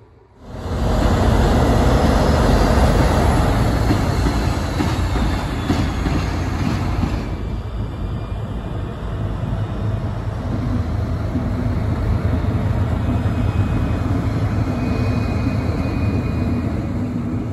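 Train moving through a rail yard: a loud, steady rumble of wheels and running gear that starts suddenly about half a second in and eases slightly after about seven seconds.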